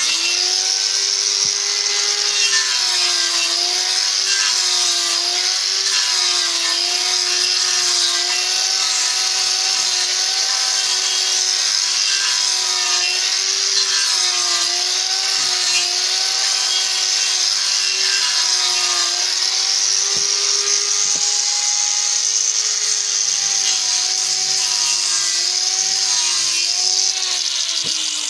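Electric power tool running continuously on wood, its motor pitch dipping slightly and recovering again and again as it bears on the work, with a strong high hiss from the cutting or sanding. It fades out near the end.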